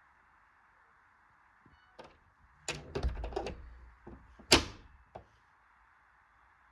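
A run of sharp clicks and knocks, with one louder sharp knock about four and a half seconds in, over a steady hiss.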